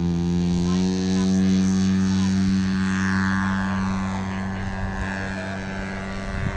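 Radio-control model airplane's engine and propeller running at a steady high throttle, loudest about a second or two in and easing a little toward the end as the model flies.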